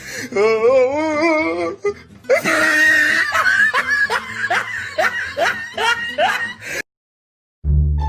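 A laughter sound effect. A wavering, quivering voice lasts about a second and a half, then several seconds of rapid, high laughter cut off suddenly near the end. A short gap of silence follows.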